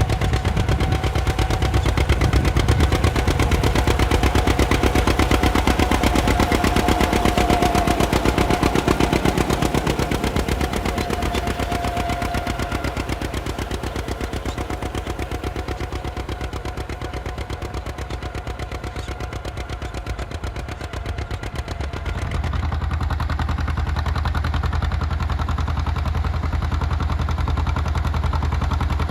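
John Deere two-cylinder tractor engine running, its exhaust a rapid, even train of pops. About 22 seconds in, it cuts to another two-cylinder tractor running with the same popping beat.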